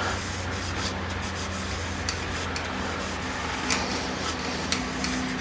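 Oil finish being rubbed onto a wooden workpiece spinning on a wood lathe: a steady rubbing hiss over the lathe's low, even motor hum.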